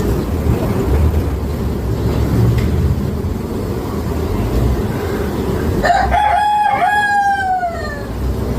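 A rooster crowing once, starting about six seconds in: a call of about two seconds that holds its pitch and then falls away at the end. Under it runs a steady low rumble.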